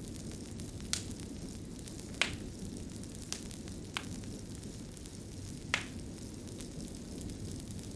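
Crackling fire: a steady low rushing, with a sharp pop or crackle every second or so, about five in all.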